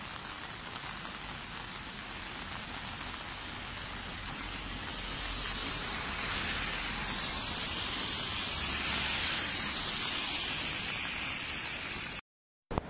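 Steady rushing, hissing noise of water, growing a little louder midway, cutting to silence for a moment near the end.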